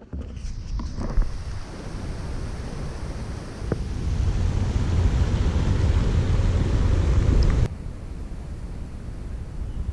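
Wind rumbling on the microphone outdoors, a steady noise heaviest in the low end. It drops suddenly about three-quarters through.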